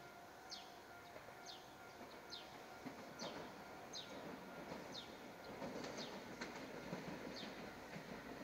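Train approaching along the line, a low rumble that grows louder from about three seconds in. Over it a bird repeats a short falling chirp, roughly once a second.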